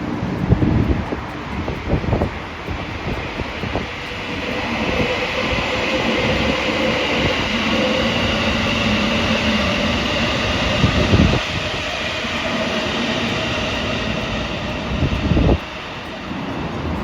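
A train passing close by: a steady rush of rail and wheel noise that swells after a few seconds, with a faint steady whine through the middle. A few sharp thumps punctuate it, the loudest near the end, after which the sound drops off suddenly.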